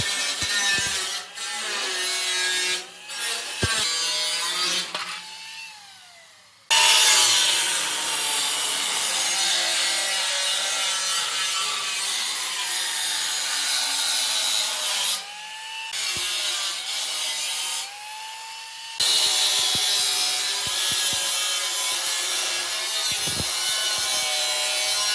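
Angle grinder cutting into sheet steel with a harsh, steady grinding noise. It is switched off a few times and its falling whine can be heard as the disc spins down, then it starts up again and goes back into the cut.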